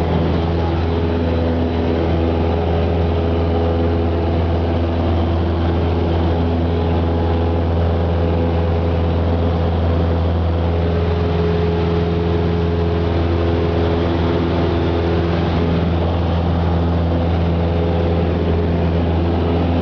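Cessna 172's piston engine and propeller running at steady power, a constant low drone that holds the same pitch and loudness throughout.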